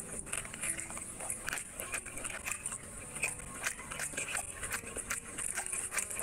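Close-miked chewing and wet mouth clicks of someone eating rice and chicken curry by hand, with many irregular sharp clicks, and fingers squishing rice and gravy on the plate.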